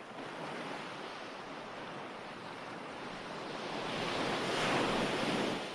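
Ocean waves washing onto a shore: a steady surf hiss that builds to a loud wave near the end, then falls away.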